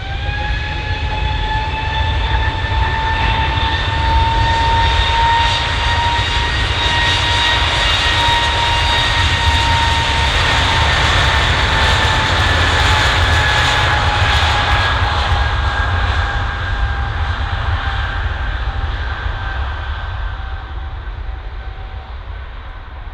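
Jet engines of an easyJet Airbus A320-family airliner at takeoff power during the takeoff roll. A steady fan whine, in several tones, rides over a deep rumble. It is loudest through the middle and fades away over the last few seconds.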